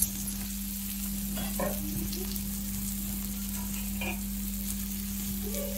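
Bitter gourd pieces sizzling steadily as they fry in oil in a pan, with a couple of brief stirring sounds, over a steady low hum.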